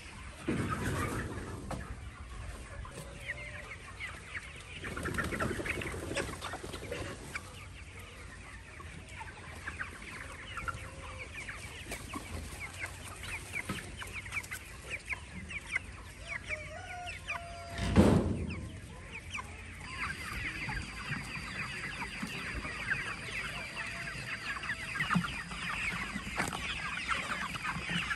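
Poultry clucking and chirping, with many short calls overlapping throughout, and one loud thump about two-thirds of the way through. A faint steady high tone comes in near the end.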